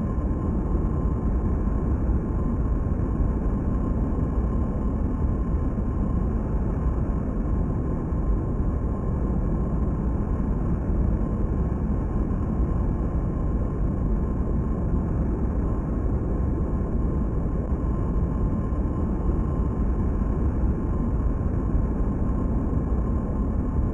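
Jet engines of a very large aircraft running steadily: a deep, even rumble with a faint constant whine above it, not changing over the whole stretch.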